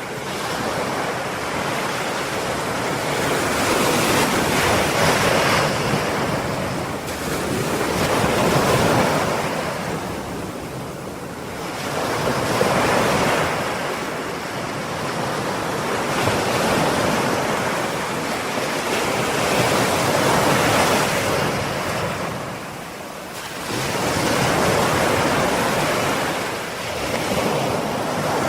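Ocean waves breaking and washing onto shore in repeated surges every few seconds, with softer lulls between the swells.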